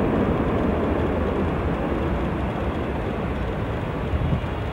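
Boeing 777-300ER's GE90 jet engines during the landing rollout: a broad, steady rush that slowly fades as the airliner slows on the runway.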